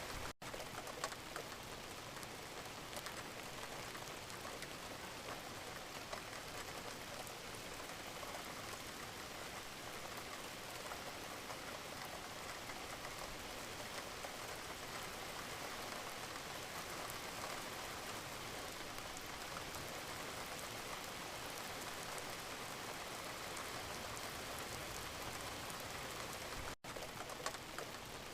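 Steady rain falling, a dense even hiss of drops with many small individual drop ticks. The sound cuts out for an instant twice, just after the start and near the end.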